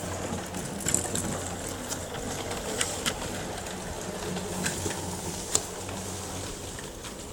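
Small 280-size DC motor and gears of a battery-powered plastic model electric locomotive running steadily with a low hum, its rubber-tyred drive wheels keeping it fairly quiet, with scattered sharp clicks from the running train.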